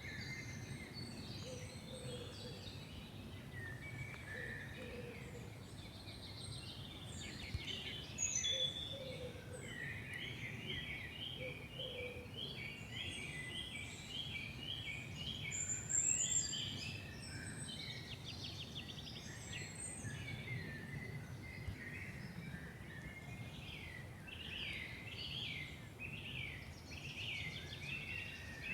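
Several songbirds singing and calling at once in a forest, with overlapping chirps and trills; about ten seconds in, one bird sings a long run of evenly repeated notes. A steady low background rumble runs underneath.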